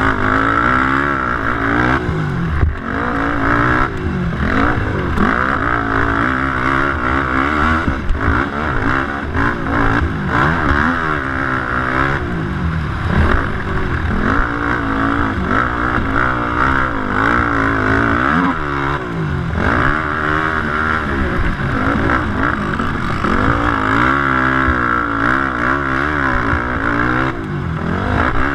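Racing quad engines revving hard through a motocross race, the engine pitch climbing and dropping again every second or two as the throttle is opened and closed.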